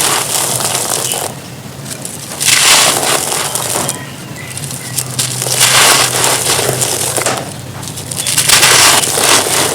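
Dry, dusty crumbly material, such as chalky stone or cement chunks, being crushed and crumbling with loud gritty crunches. Each crunch lasts about a second, coming roughly every three seconds with softer crackling in between.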